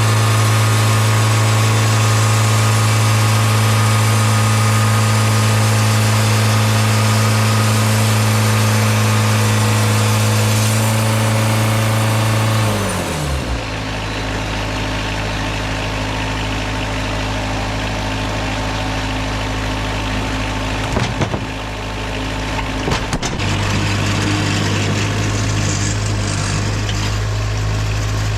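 Sawmill engine running steadily at high speed, then throttled down about halfway through, its pitch falling quickly before it settles into a lower, quieter idle. A couple of short knocks come near the end.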